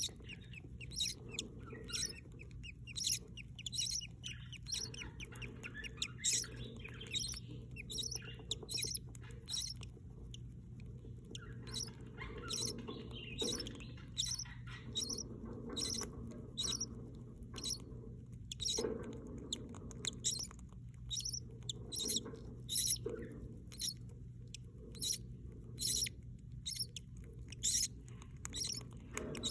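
Budgerigars chirping in a quick, continuous run of short, high peeps, with some softer chattering mixed in, over a low steady hum.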